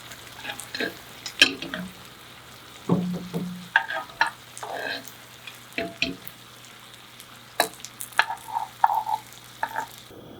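Cooking utensil stirring food in a frying pan, making irregular clicks and scrapes against the pan over light sizzling.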